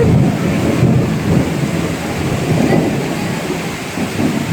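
Heavy rain pouring down with a low rumble of thunder, loudest at the start and easing slightly.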